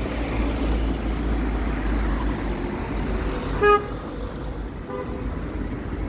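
City street traffic with a steady low rumble, and a short car horn toot a little past halfway through, the loudest sound; a fainter second toot follows about a second later.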